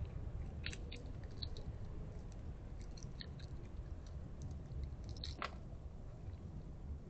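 A small wild animal chewing and crunching on hard food such as nuts or kibble: irregular crunches, the loudest a little after five seconds in, over a steady low hum.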